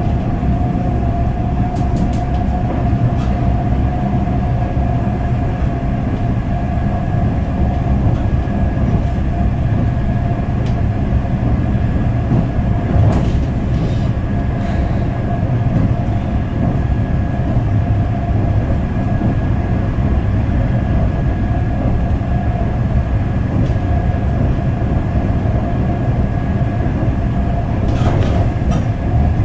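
Passenger train running at speed, heard from inside the carriage: a steady low rumble of wheels on the rails with a constant whine above it. A few faint clicks come through now and then.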